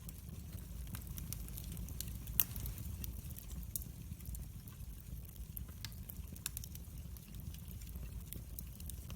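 Fire burning in a fireplace: scattered crackles and pops over a low steady rumble, with one louder pop about two and a half seconds in.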